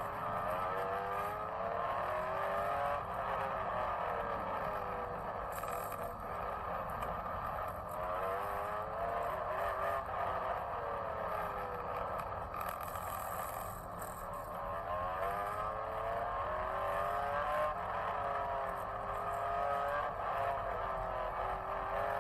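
Engines of several machines lapping a race circuit, overlapping, their pitch rising and falling again and again as they accelerate out of corners and ease off into them.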